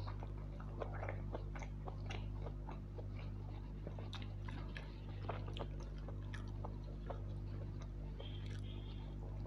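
Close-miked chewing, biting and mouth clicks of a man eating soya chunk pulao by hand, many short sharp sounds, over a steady low hum.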